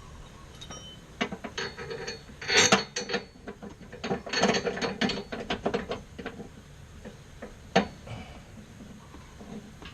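Hand ratchet wrench clicking in quick runs of strokes as a mounting bolt is run in by hand, with one sharp metallic click near the end.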